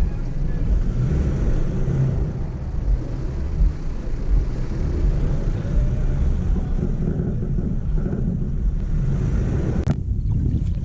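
Wind buffeting the camera microphone: a steady, loud low rumble that rises and falls irregularly, cutting off briefly near the end.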